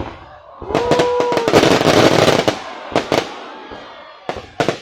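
Fireworks display going off: a dense, loud stretch of crackling bursts that gives way to a few separate sharp bangs near the end.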